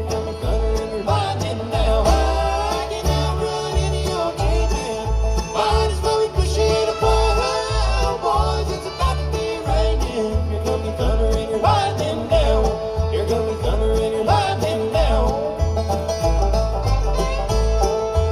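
Live country band playing an instrumental passage of a moonshine song, string instruments carrying the melody over a bass line that moves note to note.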